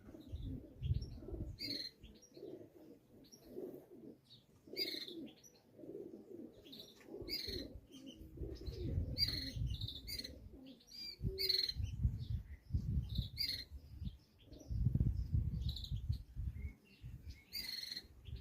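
Small birds chirping in many short, repeated calls, over irregular low rumbling gusts of wind on the microphone.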